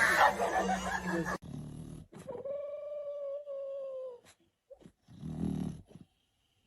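A dog giving one long whine of about two seconds, holding a slightly wavering pitch, followed by a short breathy sound. A burst of voices and laughter cuts off just before it.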